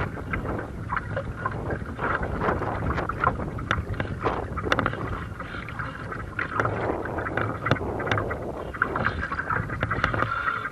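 Gusty wind buffeting the microphone, with water slapping and splashing against a hull in choppy harbour water.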